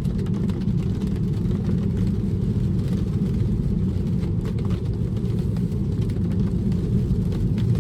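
Steady low road and tyre noise inside the cabin of a Tesla driving on a wet road in heavy rain, with faint scattered ticks.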